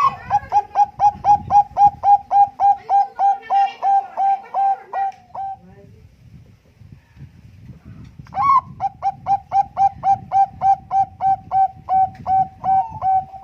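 Zebra dove (Bangkok-strain perkutut) singing: two long runs of rapid, evenly spaced coos, about three to four a second, with a pause of about three seconds between them.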